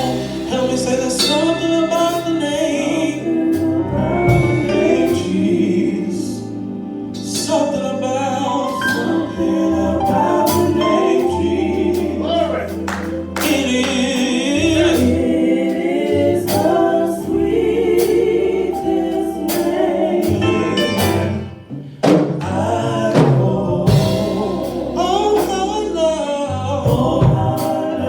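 Gospel music: voices singing together over sustained low keyboard or organ chords.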